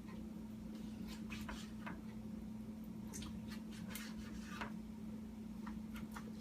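Kitchen knife slicing raw boneless chicken breast into strips on a cutting board: short, irregular soft cuts and taps of the blade, several over a few seconds.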